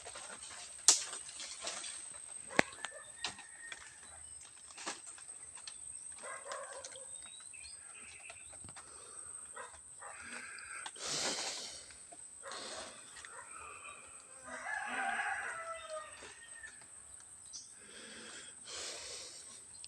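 Rooster crowing, the longest call about fifteen seconds in, over a steady high-pitched whine. A few sharp knocks come in the first three seconds.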